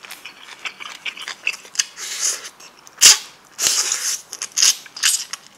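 Close-up chewing of a mouthful of perilla-leaf wrap with bean sprouts, rice and braised monkfish: wet crunching and crackling, with the loudest crunches about three seconds in.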